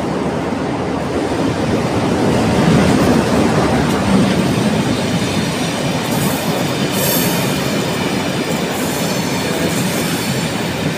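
Diesel locomotive running slowly past, followed by its coaches rolling by with steady wheel and rail noise. Loudest as the locomotive goes past about two to four seconds in, with brief high-pitched wheel squeals around six seconds and again near nine seconds.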